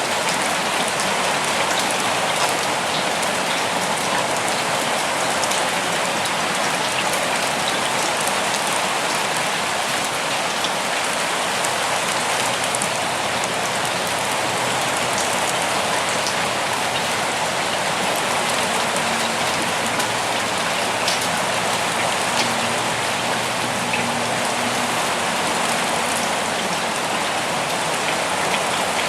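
Steady rain falling, with scattered single drops ticking through the even hiss.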